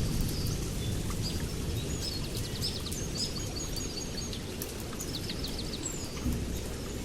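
Songbirds chirping and trilling in short phrases over a steady low rumble of rain, with scattered drip-like clicks. The rumble eases off in the first second.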